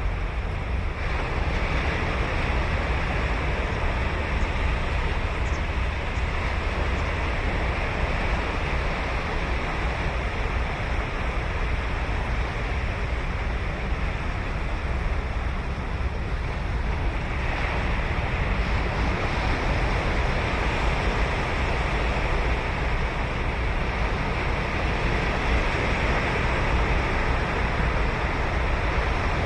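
Ocean surf breaking and washing on a sandy beach, a continuous rush with a low rumble, swelling again with a new wave about a second in and at about seventeen seconds. Wind buffets the microphone.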